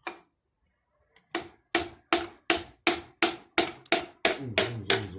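Hammering: about ten sharp, evenly spaced blows, nearly three a second, starting a little over a second in.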